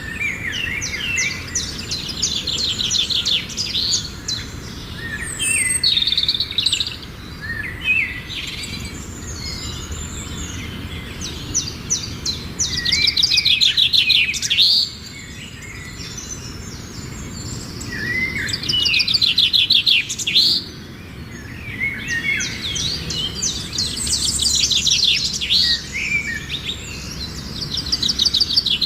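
Bird chicks chirping in rapid, overlapping runs of high calls, coming in loud bouts with short pauses between.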